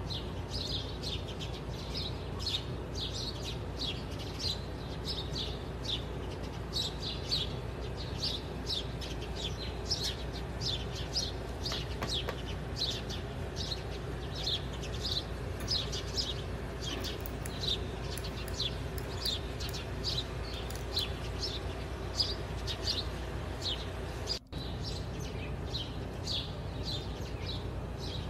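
Birds chirping, short high chirps repeated about twice a second over a low steady hum, with a brief break in the sound near the end.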